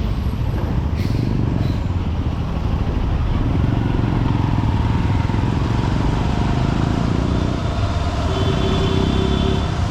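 Honda SP125's single-cylinder four-stroke engine running under way, with the steady noise of surrounding road traffic. A short click about a second in, and a brief steady tone near the end.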